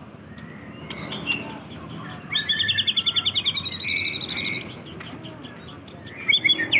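Young white-rumped shama (murai batu) singing: a fast rattling trill of quick notes a little over two seconds in, then clear whistled notes, and another rapid burst of song near the end.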